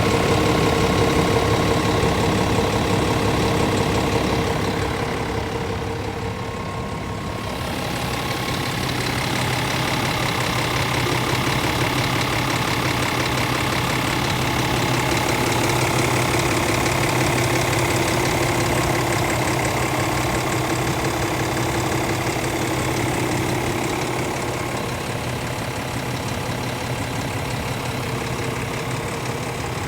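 Scania S500 truck's 13-litre straight-six diesel idling steadily, briefly a little quieter about five seconds in.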